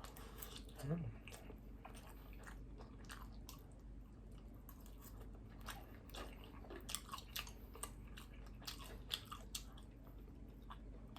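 Close-miked mouth sounds of someone eating: irregular chewing with wet smacks and clicks. A brief low hum comes about a second in.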